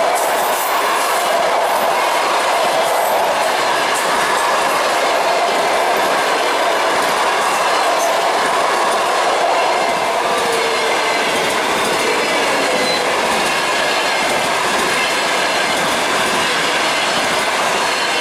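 Passenger train hauled by a ChS7 DC electric locomotive passing at speed: a loud, steady noise of the coaches' wheels running on the rails.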